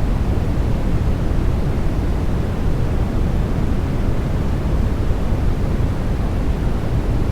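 Steady sleep white noise, deep-toned, with most of its weight low down and thinning toward the top. It does not change at all.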